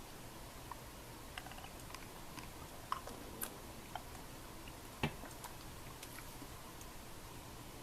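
Scattered light clicks and ticks at irregular intervals over a faint steady hiss, with one louder knock about five seconds in.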